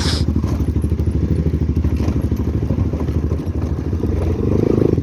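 Motorcycle engine running at low speed over a rough, bumpy road. The engine sound dips briefly about three and a half seconds in, then pulls harder near the end.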